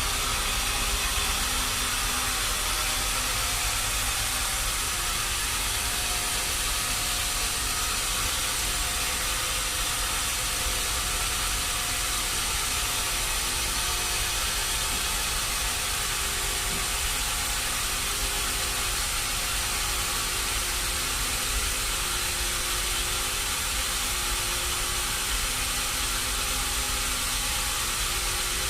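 Sawmill machinery running steadily: an even hiss over a low rumble and hum.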